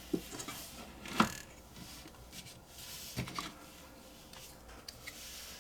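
Hands moving small tools and parts around on a workbench while searching: a few scattered light clicks and rustles.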